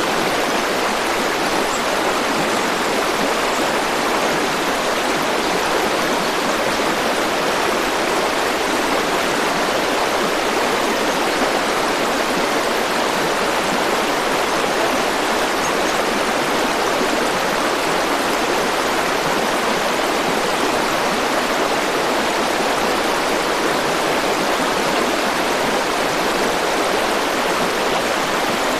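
River water rushing steadily: an even, unchanging sound with nothing else standing out.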